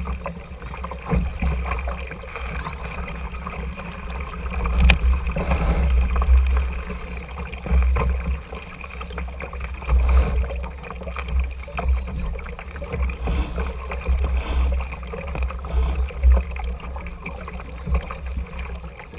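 Wind buffeting the microphone over water rushing and splashing along the hull of a small RS Tera sailing dinghy under way, with louder splashes around five and ten seconds in.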